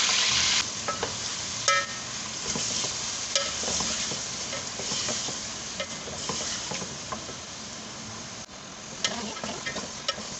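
Chicken pieces and ginger-garlic paste sizzling in an aluminium pot while being stirred with a wooden spoon, with occasional sharp knocks of the spoon against the pot. A loud sizzle in the first half-second drops away to a softer, steady sizzle.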